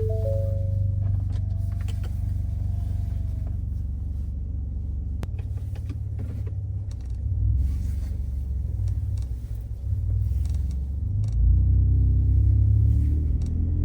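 Gen 2 Ford Raptor's twin-turbo V6 running through a Roush aftermarket exhaust with a steady low, bassy drone while driving. It grows louder as the truck accelerates about eleven seconds in. A short three-note chime sounds at the very start.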